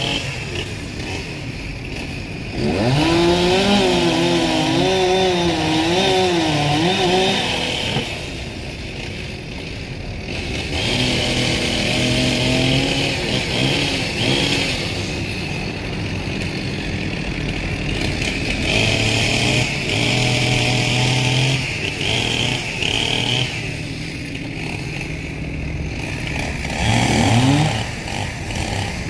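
Two-stroke chainsaw running, revved up in bursts of a few seconds with its pitch wavering as it bites into the wood, dropping back between cuts.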